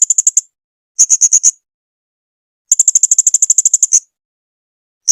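Blue-crowned hanging parrot (serindit) calling in rapid strings of sharp, high-pitched notes, in three bursts plus the start of a fourth at the very end. The longest burst, of about twenty notes, comes a little past the middle and lasts well over a second.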